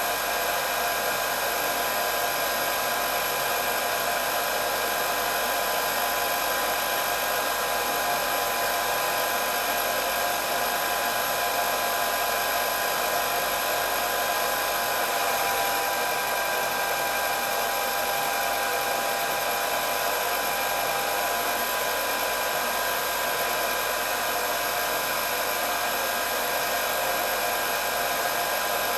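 Electric hair dryer running continuously, a steady motor whine over the rush of blown air, with no change in speed.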